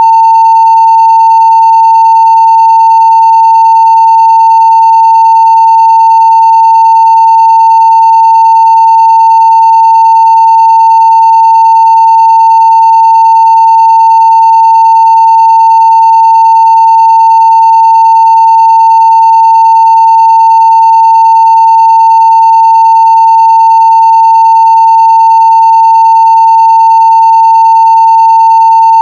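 Continuous 900 Hz sine-wave test tone at full scale (0 dB), steady and unbroken.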